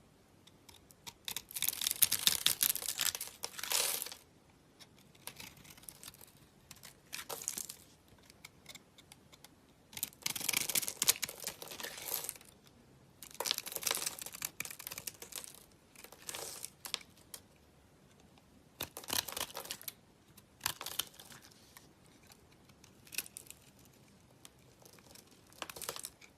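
Soap crackling and crumbling as it is worked, in a series of bursts a second or two long with short quiet gaps between them.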